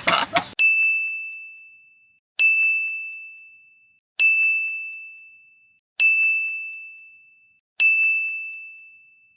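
A bell-like ding sound effect, the same single ringing tone struck five times about every two seconds, each ring fading out before the next.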